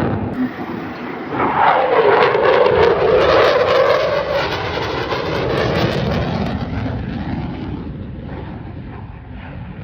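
Aircraft flying past low at an airshow display, its engine noise swelling about a second and a half in, the pitch dropping as it passes, then slowly fading away.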